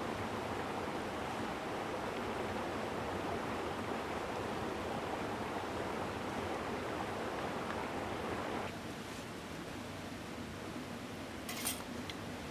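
Mountain stream rushing steadily. It turns suddenly quieter about two-thirds of the way through, and a short sharp click comes near the end.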